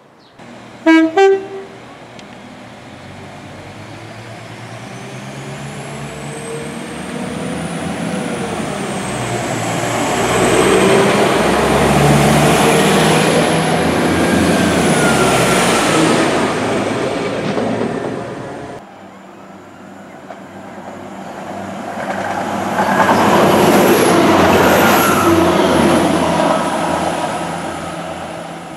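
A short train horn toot, then a Northern multiple unit runs past the platform: wheel and running noise builds and fades, with a high whine gliding up and down. After an abrupt cut, another train passes, its noise rising and falling away.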